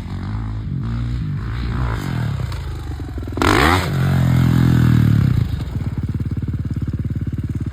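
Dirt bike engine revving. About three and a half seconds in it rises sharply and gets loud, holds a strong steady note, then drops back to a lower, evenly pulsing putter like an idle.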